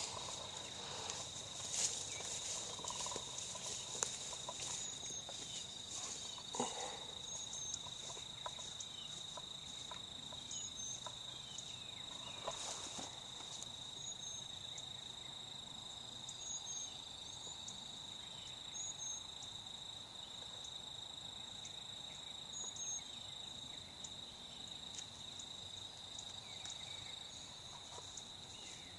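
Quiet woodland ambience: a steady high insect drone, with short faint bird chirps repeating every couple of seconds and scattered soft rustles and clicks.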